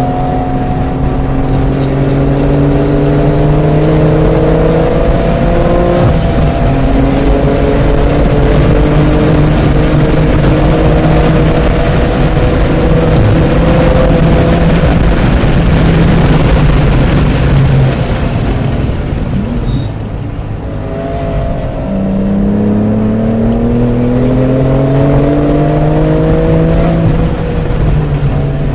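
BMW F80 M3 Competition's twin-turbo straight-six under hard acceleration, its pitch climbing, then dropping at an upshift about six seconds in, and held high with growing wind and tyre noise. It goes off throttle about two-thirds of the way through, then pulls hard again with rising pitch and another shift near the end.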